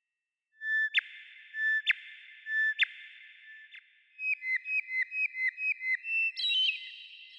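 Songbird singing: three clear whistled notes, each ending in a sharp click, then a quick run of about ten short notes and a higher, more complex phrase near the end.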